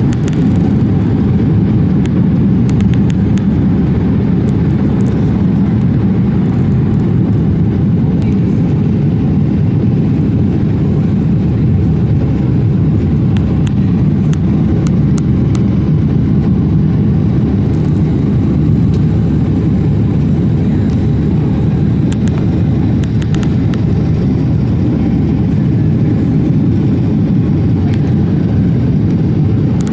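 Jet airliner's engines running steadily: an even, low rumble that holds at one level throughout.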